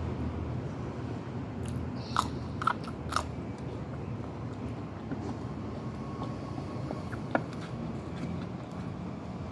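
Close-miked eating: chewing, with three sharp crunchy bites in quick succession about two seconds in and one more later, over a steady low background rumble.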